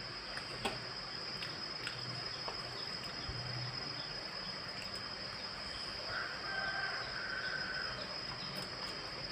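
Eating sounds: quiet chewing with a few small clicks, over steady background hiss and a constant high whine. A brief steady tone sounds for about two seconds, starting about six seconds in.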